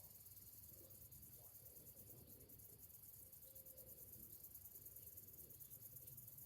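Faint chorus of summer cicadas: a high, rapidly pulsing buzz over a low background rumble.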